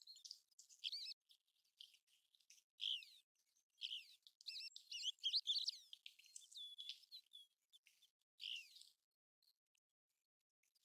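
American golden plover calls: faint, short, high whistled notes and chirps in irregular bursts, some overlapping, stopping about two seconds before the end.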